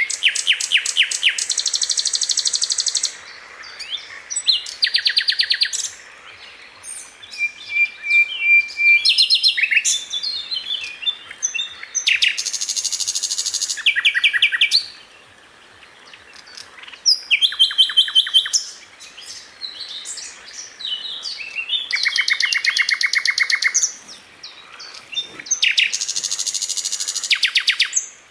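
Sikatan Londo flycatcher singing: a string of rapid trills of fast repeated notes, each lasting one to three seconds, with short chirps between them.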